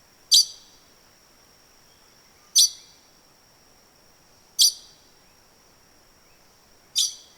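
Sri Lanka blue magpie calling: four short, sharp, high calls about two seconds apart, each starting abruptly and trailing off quickly. A faint steady high tone runs underneath.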